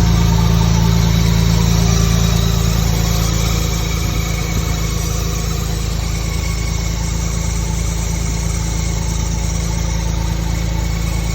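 Toyota Supra's 3-litre twin-turbo 2JZ straight-six idling steadily, running after six years laid up. Its level eases down slightly a few seconds in.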